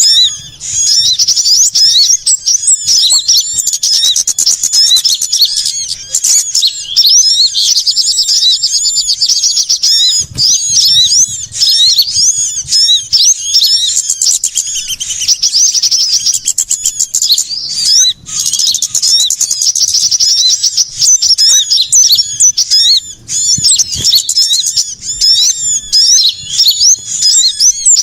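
Dense, continuous chorus of rapid high-pitched chirps and twittering from many small birds overlapping without a break. It is a mixed small-bird lure recording of the kind played to call sunbirds and other small birds in.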